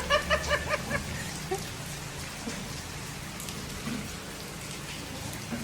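Heavy rain drumming steadily on a car roof. In the first second a quick run of about six short electronic beeps sounds over it.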